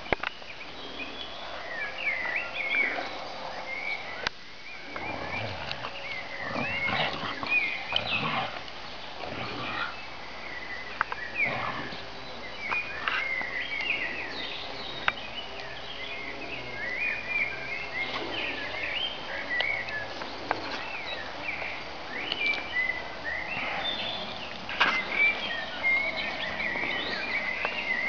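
Small songbirds chirping and twittering continuously, many short rising and falling calls, with occasional brief knocks and rustles among them.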